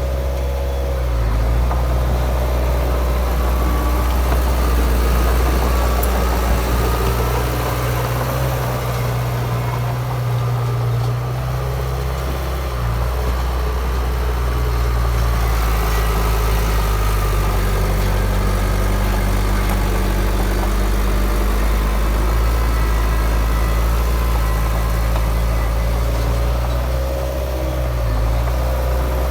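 Heavy diesel engine of earthmoving machinery running steadily, its engine note shifting down and back up a few times as the load changes.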